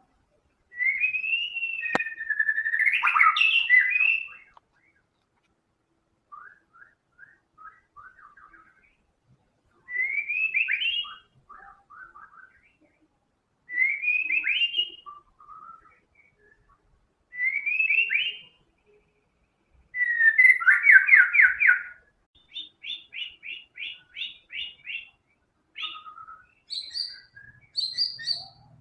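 White-rumped shama singing in full song: separate whistled phrases of sweeping and trilled notes a few seconds apart, mixing in phrases imitated from other birds' songs. The loudest phrases come near the start and about two-thirds of the way through, followed by a quick run of repeated notes.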